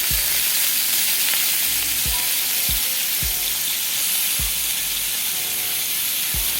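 Chicken sizzling in a hot oiled grill pan as sauce and spice stock are glazed over it: a steady frying hiss, with soft low thumps about once a second.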